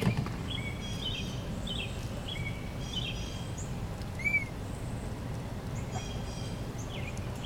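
Small birds chirping in short, repeated calls over a steady low background rumble, with one louder arched chirp about four seconds in.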